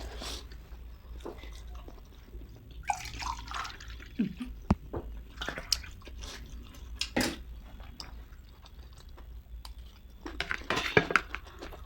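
Water poured into a glass, with scattered sharp clicks around it.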